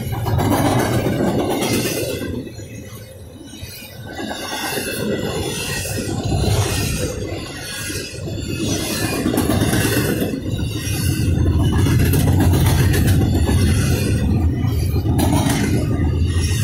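Double-stack intermodal well cars rolling past on steel rails: a steady rumble of wheels with regular clicks as the trucks cross rail joints. In the second half a low diesel drone builds as the train's mid-train GE ES44AH distributed-power locomotive approaches.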